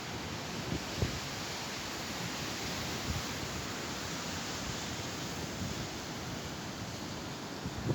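Steady rush of sea surf, with wind buffeting the microphone now and then.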